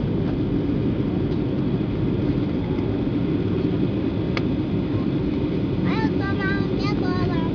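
Steady cabin noise inside a Boeing 737-700 on approach to landing: the hum of its CFM56-7B turbofans and the rush of air past the fuselage, heard from a passenger seat. There is a short click about four seconds in, and a voice speaks briefly near the end.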